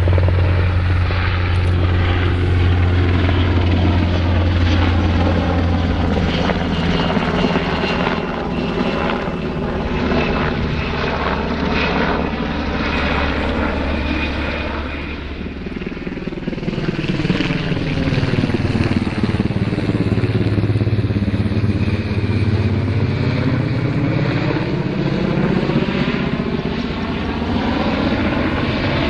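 Sikorsky HH-60G Pave Hawk helicopter's rotors and twin turboshaft engines running in flight: a loud, steady low rotor drone. About halfway through the sound dips briefly, then its tone sweeps as the helicopter moves past.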